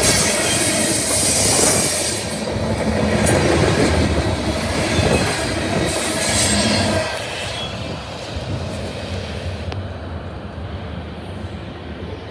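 Freight train of container flatcars rolling past close by: steel wheels rumbling and clattering on the rail, with a high hiss. About seven seconds in the last car goes by and the sound drops away as the train pulls off down the track.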